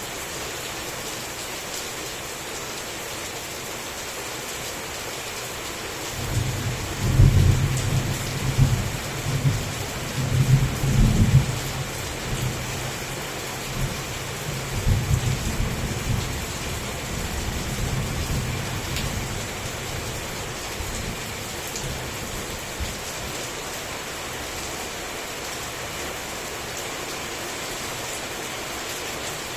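Heavy rain falling steadily, with a long rumble of thunder that starts about six seconds in, rolls loudest over the next several seconds and dies away well before the end.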